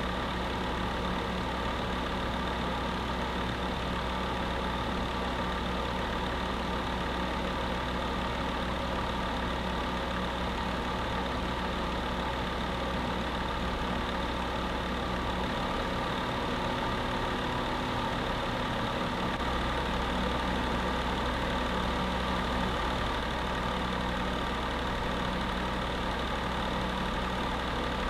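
Space heater running steadily: an even whir with a low hum beneath it.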